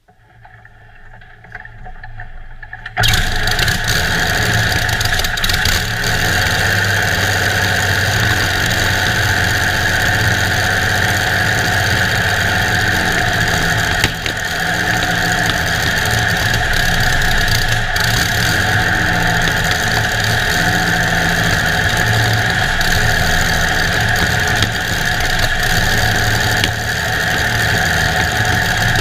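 The 1920 350hp Sunbeam's 18.3-litre V12 aero engine starting: a rising sound for about three seconds, then the engine fires suddenly about three seconds in and runs loud and steady.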